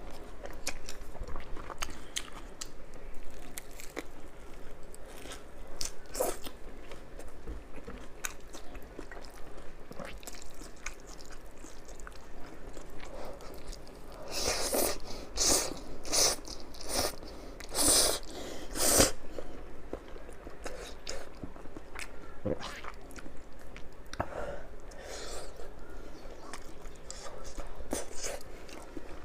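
Close-miked eating sounds: steady chewing and biting with small wet mouth clicks, and a run of louder crunchy bites about halfway through.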